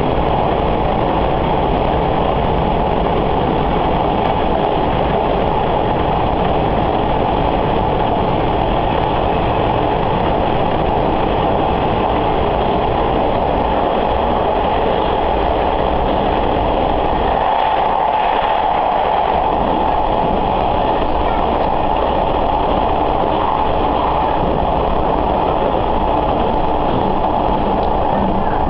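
Sanriku Railway diesel railcar running along the line, heard from inside: steady engine and wheel-on-rail noise. The low rumble eases off about two-thirds of the way through.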